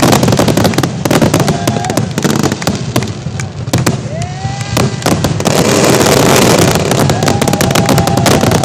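Fireworks finale barrage: a dense, rapid string of loud bangs and crackles with no gaps, thickening into continuous crackling about two-thirds of the way through.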